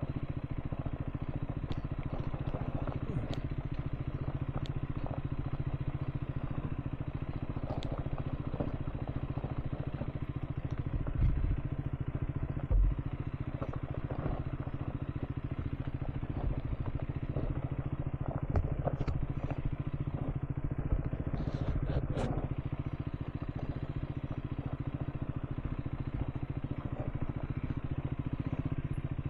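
Single-cylinder motorcycle engine, a Triumph Scrambler 400 X, running steadily while riding a dirt track, with scattered clicks. Two heavy low thumps come about halfway through.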